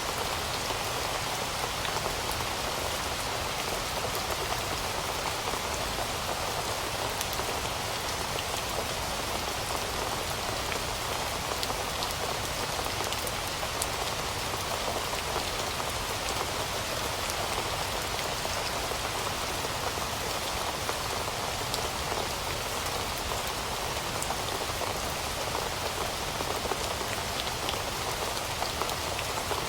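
Steady rainfall, a dense even hiss with scattered individual drops ticking.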